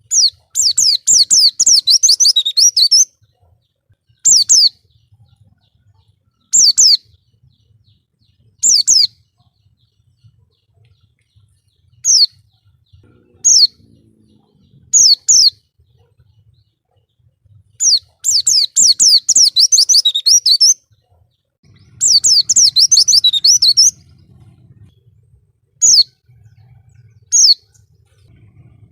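White-eye (pleci) singing in rapid, high twittering phrases. There is a long run at the start and two more just past the middle, with short single phrases in between.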